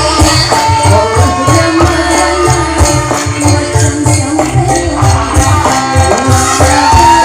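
Dangdut band music played loud: a fast, even drum beat under a melody line, with jingling percussion.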